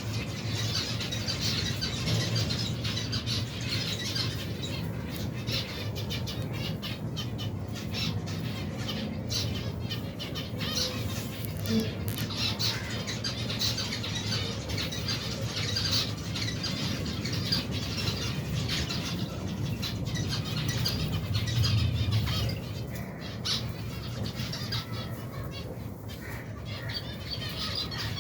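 A large flock of aviary finches calling and chirping continuously, with frequent wing flutters as birds move about. A low steady hum runs underneath.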